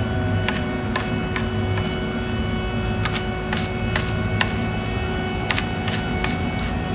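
Heavy construction machine engine running steadily with a low hum and a constant whine on top, with scattered sharp clicks and ticks at irregular intervals.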